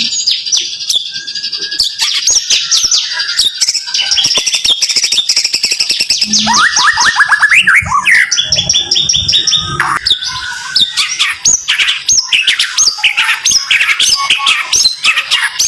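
White-rumped shama (murai batu) singing rapid-fire 'tembakan' volleys: dense, fast runs of short, sharp whistled notes sweeping up and down, many per second, with hardly a break.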